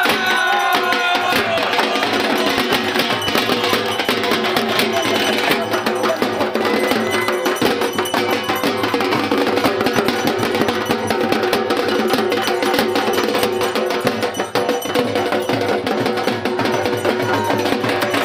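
Loud festival music, with fast, dense drumming and clacking percussion running continuously.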